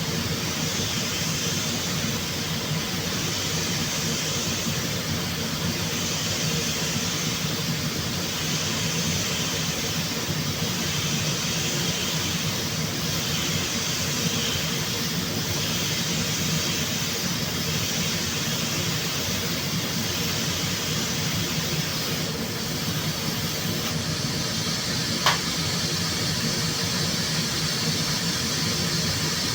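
Steady mechanical hum with a hiss over it, unchanging throughout, with a single short click near the end.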